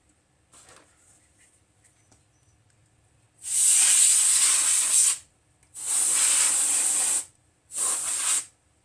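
Three hissing blasts of pressurized spray or air, each one to two seconds long, the last one shortest.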